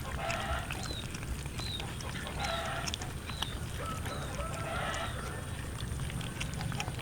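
Cats meowing again and again, short calls about once a second.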